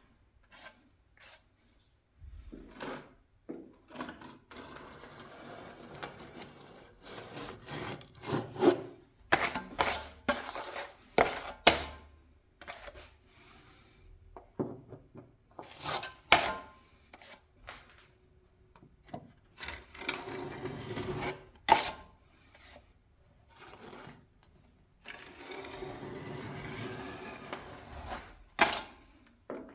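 Hand-tool work on a window reveal: many sharp knocks and taps, with several stretches of scraping or rubbing lasting a few seconds each.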